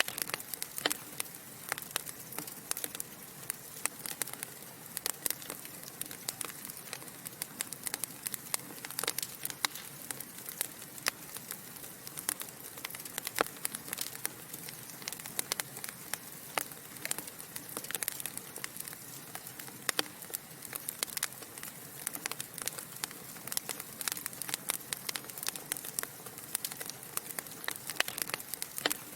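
Burning logs in a fireplace crackling steadily: dense, irregular pops and snaps over a soft steady hiss.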